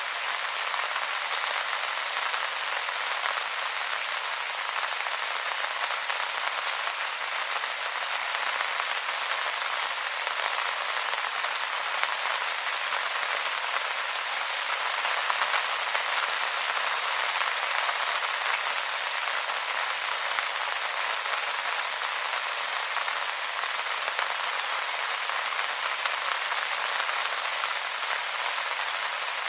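Steady rain falling on wet leaves, a dense even patter of drops with no lulls.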